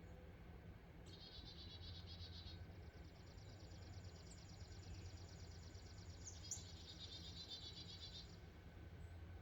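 Faint, high trills made of very fast, even pulses: one about a second in, a weaker stretch after it, and the loudest one near the end. A steady low hum lies underneath.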